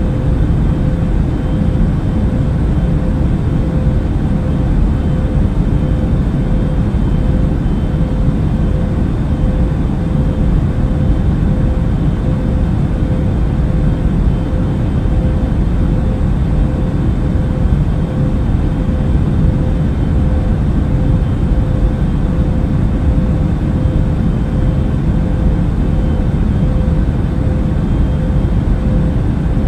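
Airliner cabin noise in flight: a steady, unchanging low rumble of engines and rushing air, with a faint steady hum running through it.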